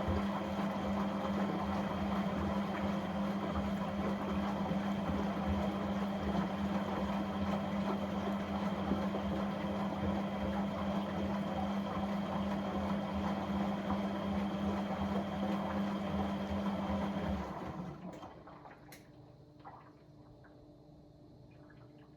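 Washing appliance running with rushing water and a steady hum, which cuts off suddenly about seventeen seconds in, leaving only a faint background.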